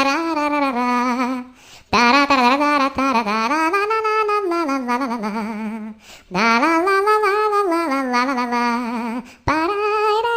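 A woman humming or singing a wordless melody in long held phrases with a wavering vibrato, with short breaks for breath between phrases.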